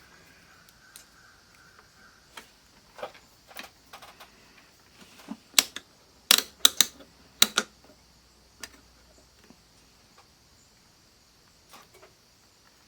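Scattered clicks and taps from handling an analog multimeter and its test leads, with a quick run of sharp, loud clicks about halfway through.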